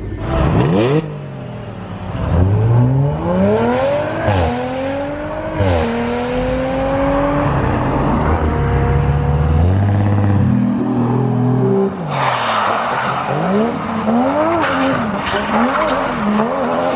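Car engines being driven hard: one revs up through two quick gear changes, then eases to a steadier note. Later a broad rush of tyre noise runs under revs that rise and fall.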